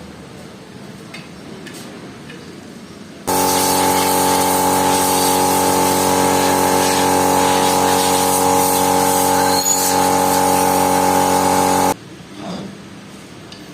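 An electric motor runs steadily with a strong hum and a hiss. It starts abruptly about three seconds in and stops abruptly about two seconds before the end.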